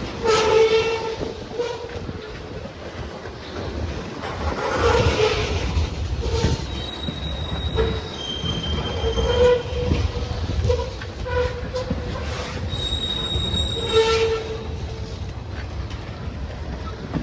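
Freight train rolling past with a steady low rumble, its wheels squealing in thin high-pitched tones on and off, with short pitched screeches a few times along the way.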